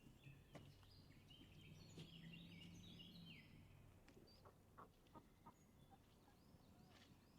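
Faint birdsong: quick, arching chirps and twitters of small birds, busiest in the first half, with a few soft clicks about halfway through.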